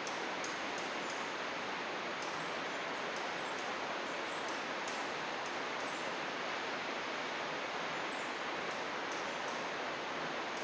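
A river babbling with a steady rush, and a small bird chirping in quick clusters of short, high notes every few seconds.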